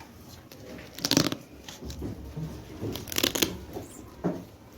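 Letter cards being handled and slid about, rustling in two short bursts about a second and three seconds in, with a smaller rustle near the end.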